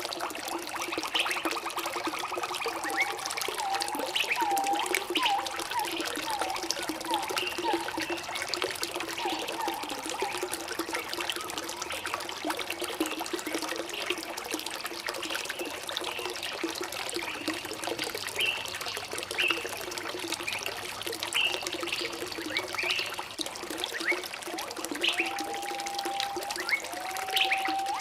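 Water running and trickling steadily, with birds calling in short chirps throughout. A quick run of repeated calls comes in the first ten seconds, and a couple of longer held whistled notes come near the end.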